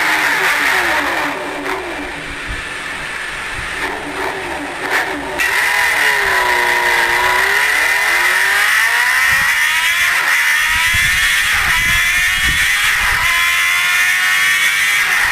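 Motorcycle engine running while riding, its pitch falling and rising with the throttle. It drops quieter about a second in, then picks up again around five seconds in and climbs steadily.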